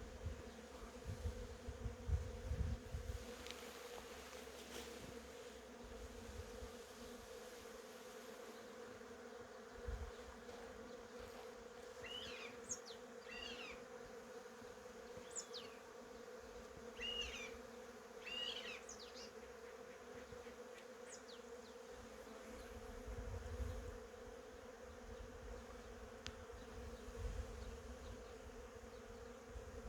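Honeybees buzzing, a steady hum, with a few short high chirps around the middle.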